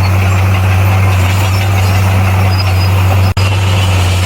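Bulldozer's diesel engine running steadily with a deep, even drone. The sound cuts out for an instant a little over three seconds in, then resumes unchanged.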